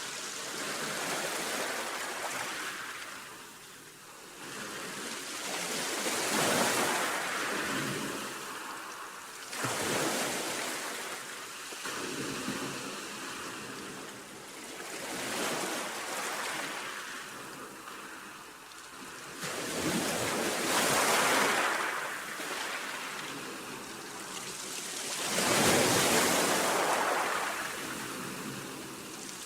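Sea waves breaking and washing in, a rushing noise that swells and fades about every five seconds.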